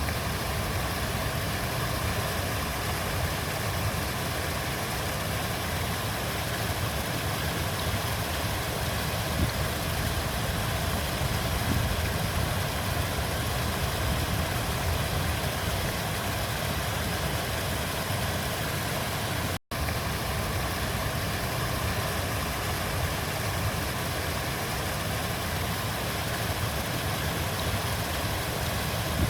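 River water flowing: a steady rushing noise with a strong low rumble, broken once by a split-second dropout about twenty seconds in.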